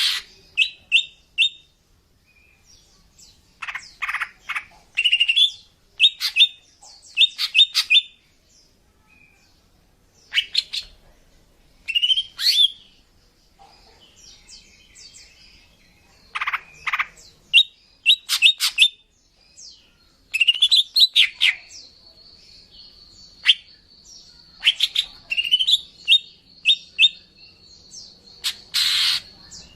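Female greater green leafbird (cucak ijo) calling: irregular bursts of sharp chirps and short rising whistled notes with pauses between, and in the latter half a thin steady note held for several seconds. These are female calls of the kind used to lure male leafbirds.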